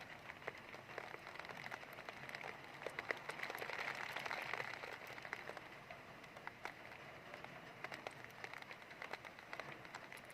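Heavy rain falling with many separate drop ticks over a steady rush. The rush swells louder for a couple of seconds in the middle, then eases back.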